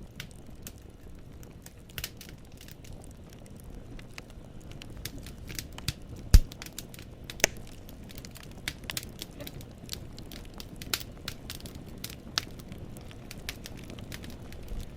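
Wood fire burning in a fireplace, the logs crackling with irregular sharp pops over a low steady rumble of the flames. One pop about six seconds in is much louder than the rest.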